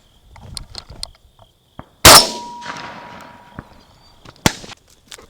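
A single close shotgun shot about two seconds in, its report fading out over about a second, followed a couple of seconds later by one sharp click.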